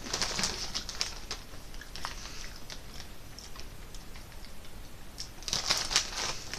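A mouthful of potato chip being chewed, with crisp crunching in the first second or so and another burst of crunching near the end.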